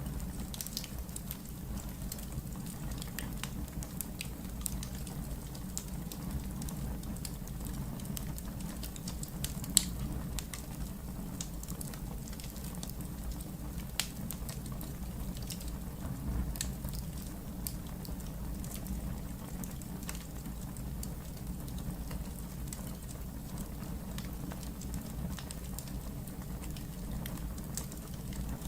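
Wood fire burning in a fireplace: a steady low rumble of the flames with scattered sharp crackles and pops, the loudest pop about ten seconds in.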